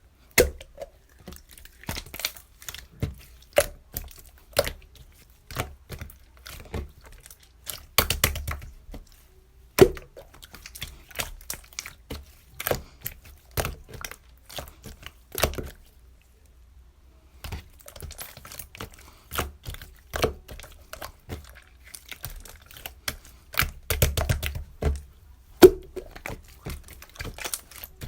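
Close-up, irregular clicking, tapping and crinkling handling sounds, stopping briefly about halfway through.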